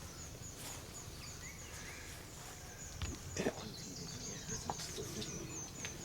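Faint forest ambience: small birds chirping and calling over a high, steady insect buzz, with a couple of soft knocks about three seconds in.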